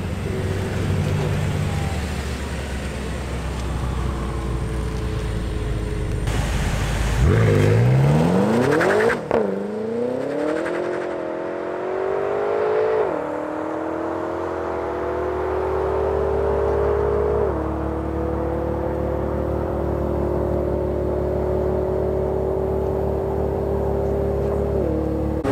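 BMW M6 Competition's twin-turbo V8 idling at the start line, then launching hard: the revs climb steeply and the engine pulls through the gears, with upshifts about nine, thirteen, seventeen and twenty-five seconds in, each a sudden drop in pitch followed by another long climb.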